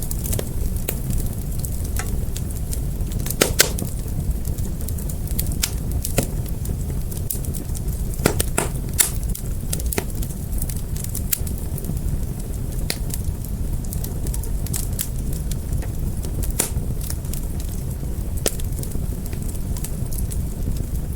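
Fire burning with a steady low rumble and irregular sharp crackles and pops, a few of them louder.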